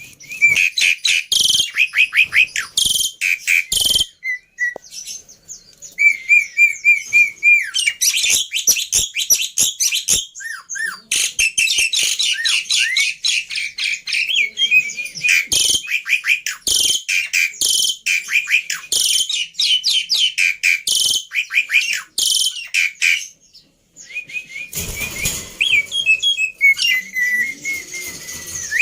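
Black-winged myna (jalak putih) singing: fast runs of harsh chirps, sharp clicks and trills mixed with rising and falling whistles. There is a brief pause about three-quarters of the way through, after which the song comes back over a background hiss.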